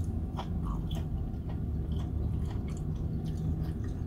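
A person chewing a mouthful of cooked chicken-of-the-woods mushroom: small, scattered wet clicks of the mouth and teeth over a steady low hum.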